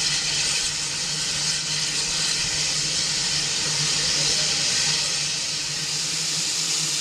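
Steam locomotive hissing steadily, with a low steady hum underneath.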